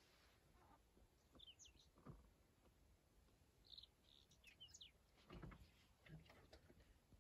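Near silence with faint, short bird chirps three or four times, and a couple of soft low thumps.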